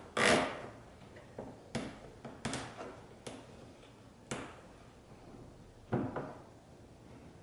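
Hands working cable ties on a plastic kayak and boat seat. A short rasp comes just after the start, followed by a handful of sharp plastic clicks and knocks about a second apart, and another short rasping pair near the end.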